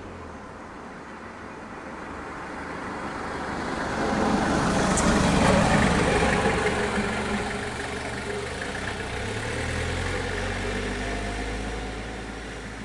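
A motor vehicle's engine running, growing louder to a peak about five or six seconds in and then fading away as it passes.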